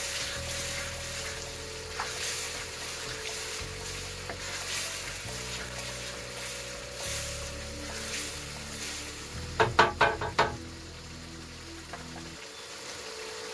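Sauce sizzling in a hot wok while a wooden spoon stirs it. About two-thirds of the way through comes a quick run of about five sharp knocks as the spoon is tapped against the wok. Soft background music with sustained low tones plays underneath.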